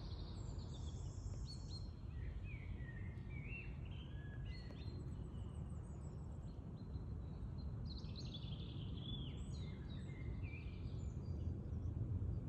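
Songbirds singing in two bouts of short chirping, gliding phrases, from about half a second to five seconds in and again around eight to ten seconds, over a steady low background rumble.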